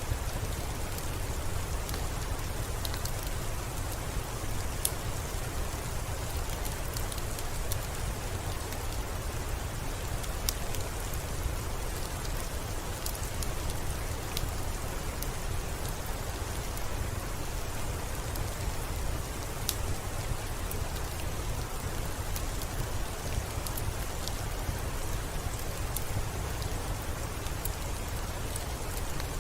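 Steady rainfall, a constant hiss over a low rumble, with scattered sharp ticks throughout.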